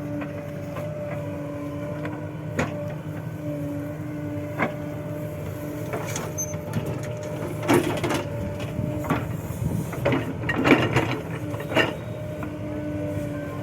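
Diesel engine of a JCB 3DX backhoe loader running steadily with a steady whine. A series of metallic knocks and clanks comes in the second half.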